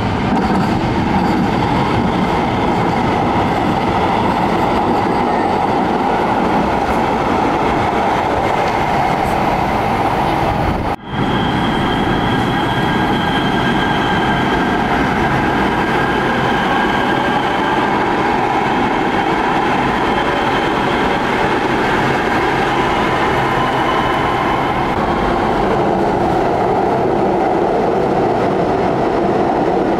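Los Angeles Metro Rail train running on its tracks: a loud, steady rush of wheel-on-rail noise, cut off for an instant about eleven seconds in before carrying on.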